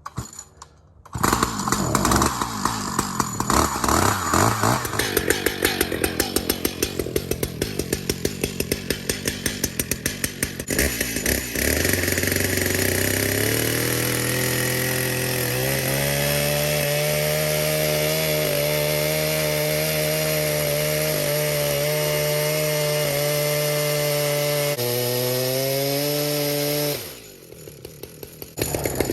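Two-stroke chainsaw started and running unloaded: it fires up about a second in with an uneven, pulsing run, then settles and is brought up to a steady higher speed, drops back, and is shut off near the end. It is run to get bar oil flowing through a compromised oiler hose.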